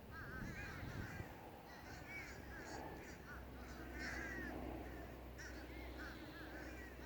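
Several crows cawing over and over, short harsh calls overlapping one another. A low steady rumble joins beneath them about three seconds in.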